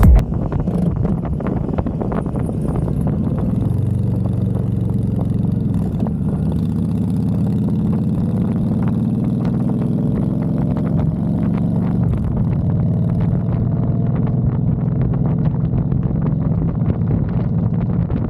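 Honda Fury's V-twin engine running under way. Its pitch climbs from about six seconds in, drops a little at around twelve seconds, then holds steady.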